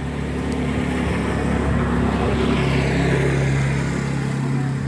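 A motor vehicle's engine passing by, growing louder to a peak about three seconds in and then fading, its pitch sliding down as it goes.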